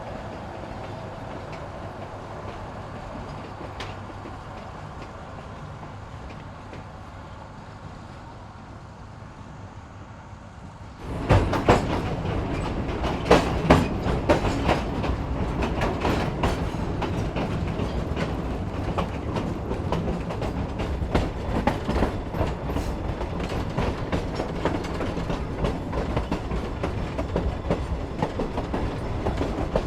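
Narrow-gauge passenger train riding the rails: a low steady rumble, which about eleven seconds in suddenly grows much louder and fills with rapid wheel clacks and knocks over the track.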